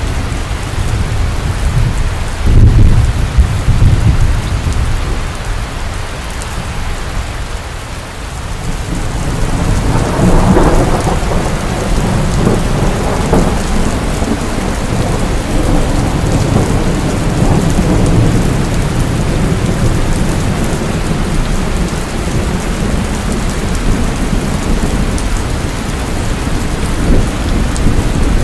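Steady rain falling, with rolling thunder: a low rumble about two to three seconds in, then a longer roll that builds from about ten seconds in and runs on under the rain.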